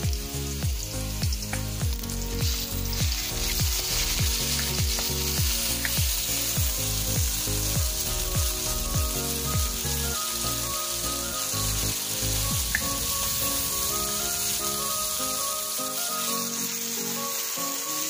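Sliced chicken with garlic and onion sizzling in hot palm oil in a wok, stirred with a wooden spatula. Background music plays underneath; its low beat fades out about two-thirds of the way through.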